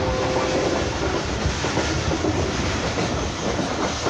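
Passenger train running, heard from inside a carriage at the window: a steady rumble of the wheels on the track with rail clatter.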